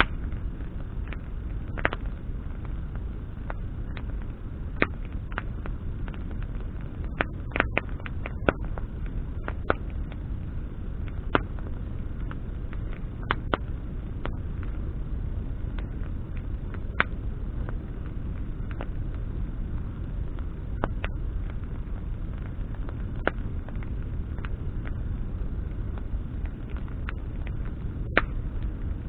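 Bonfire of burning branches crackling: scattered sharp pops, with a quick cluster of them about seven to nine seconds in, over a steady low rushing noise.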